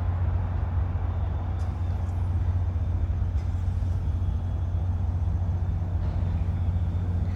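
VIA Rail diesel locomotives idling, a steady low rumble.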